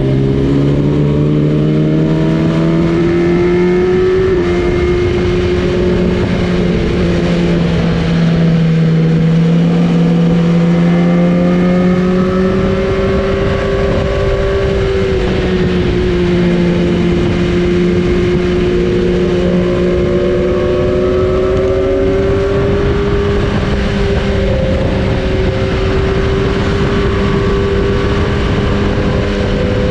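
Superbike engines running at steady highway speed, the engine note drifting gently up and down with no hard revving, over wind rush.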